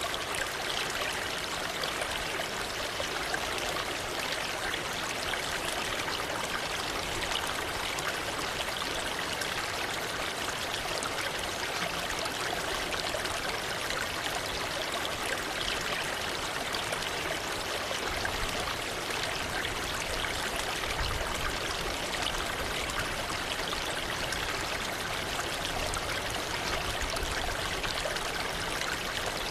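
Waterfall: falling water splashing in a steady, even rush, more hiss than rumble.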